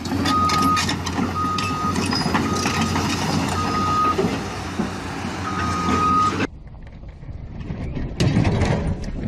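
A heavy vehicle's reversing alarm beeping five times over loud engine and machinery noise, cutting off abruptly about six and a half seconds in, after which quieter clattering follows.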